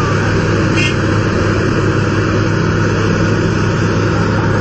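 Excavator's diesel engine running steadily under load, a constant low drone.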